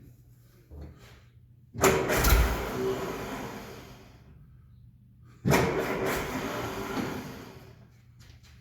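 1968 M151A1 military jeep's four-cylinder engine being started twice; each time it fires suddenly and dies away over about two seconds. The engine is starved of fuel and needs a fuel pump and carburetor rebuild.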